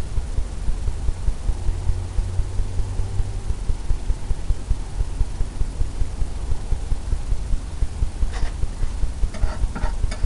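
A low, steady hum that throbs in a regular pulse a few times a second, with a few faint clicks near the end.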